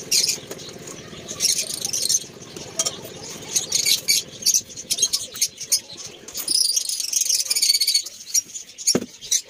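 Many caged lovebirds, cockatiels and java sparrows chirping and chattering, a dense run of shrill, high-pitched calls. A low hum underneath stops about two-thirds of the way through, and there is a single knock near the end.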